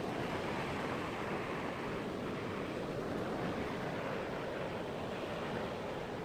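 Steady wash of sea surf on the shore, with wind noise mixed in.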